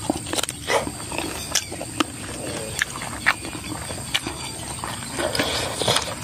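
Close-miked wet chewing and lip-smacking of a person eating spicy mixed chicken feet by hand, with irregular sharp clicks and crunches as he bites and chews.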